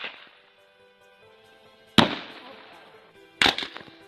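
Fireworks going off: a loud bang about two seconds in, then another bang followed by a couple of quick cracks about a second and a half later, each one trailing off.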